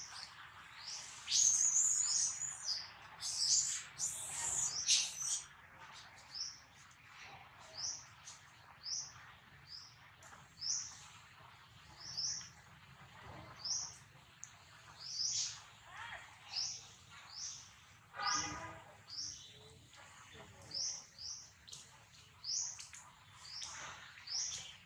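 A bird calling with short, high, upward-sweeping chirps repeated about once a second or a little faster, louder and more crowded in the first few seconds. A brief lower call cuts in once about two-thirds of the way through.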